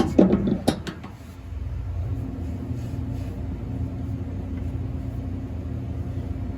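A steady low machine hum. It is broken in the first second by a few sharp clicks and a short knocking of parts being handled, then dips briefly before running on evenly.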